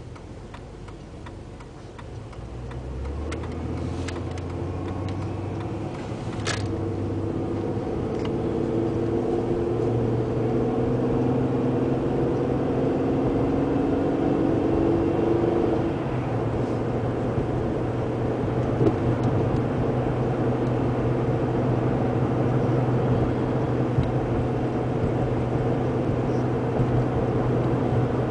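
Mercury Sable's 3.0-litre V6 under heavy load climbing a long grade, heard from inside the cabin with road noise. The engine gets louder and its note rises over the first ten seconds or so, then holds steady. The owner says it pings all the way up the hill: pre-ignition of the fuel under load. A sharp click about six seconds in.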